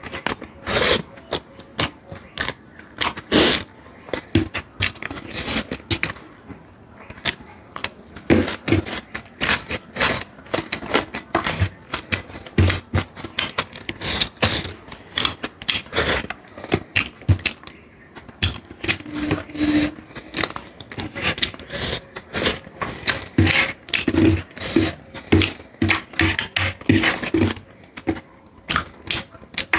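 Close-up eating sounds: a person chewing mouthfuls of mutton curry and egg curry, a steady run of quick clicks and smacks from the mouth.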